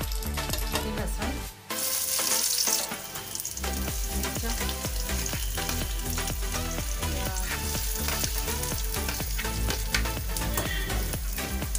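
Cumin seeds, then chopped aromatics and onion, sizzling and frying in hot oil in a steel kadai for a tadka. There is a burst of louder sizzling about two seconds in. Background music with a steady beat plays throughout.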